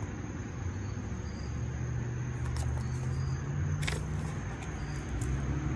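Steady low outdoor rumble, like wind on the microphone or distant traffic, with a brief soft click about four seconds in.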